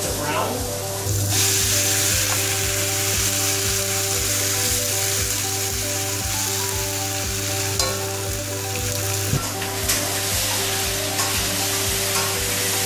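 Marinated chicken wings sizzling in hot oil in a wok and stirred with a spatula. The sizzle jumps up about a second in as the chicken goes into the pan, and eases a little near the end. A background music track with a steady beat runs underneath.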